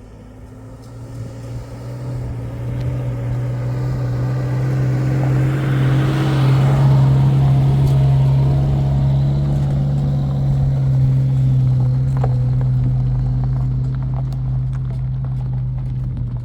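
A motor vehicle's engine running at a steady pitch, growing louder toward the middle and easing off near the end.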